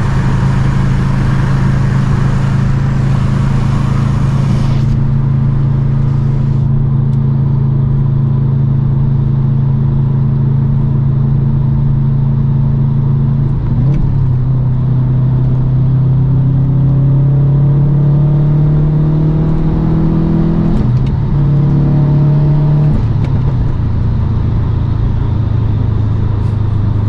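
2008 Subaru STI's turbocharged 2.5-litre flat-four through an Invidia catted downpipe and N1 cat-back exhaust, holding a steady drone while cruising. About halfway through the revs climb under acceleration, drop at a gear change, climb again, and then settle to a steady lower note near the end.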